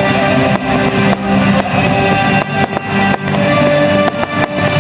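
Guitar-led rock music playing loudly over a fireworks display, with a string of sharp firework bangs and cracks going off through it.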